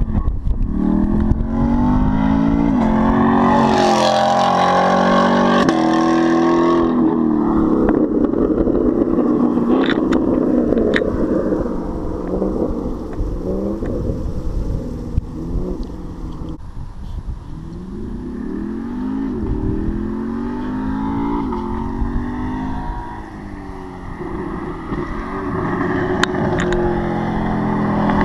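2019 Camaro SS 6.2-litre V8 with a muffler-deleted exhaust, running loud and accelerating, its pitch climbing and dropping back several times as it revs up.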